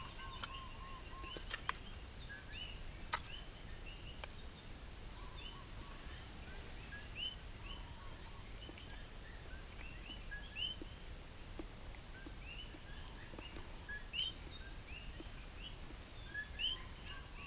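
Birds chirping, many short rising chirps repeating over a quiet background, with a steady faint high-pitched tone behind them.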